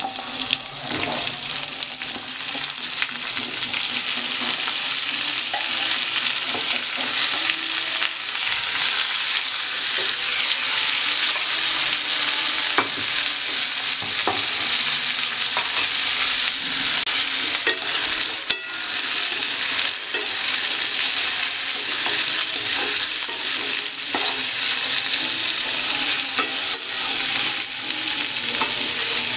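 Potato and pumpkin pieces frying in hot oil in a wok: a steady sizzle, with a metal spatula scraping and clicking against the pan now and then.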